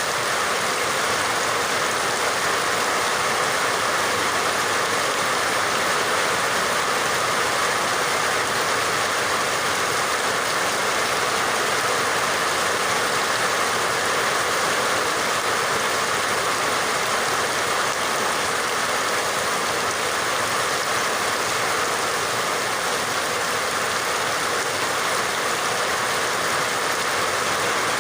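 Steady rain falling, a constant even hiss with no breaks or separate drops standing out.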